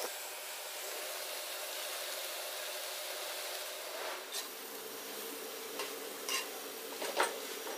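Vegetable stuffing frying with a steady soft sizzle in a clay pan; from about four seconds in, a metal ladle scrapes and taps against the pan several times as the mix is stirred.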